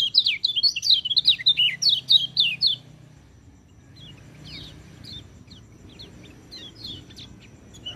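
Orange-headed thrush (peleci) singing: a loud, rapid run of varied sweeping whistled notes for about the first three seconds, then fainter, scattered phrases.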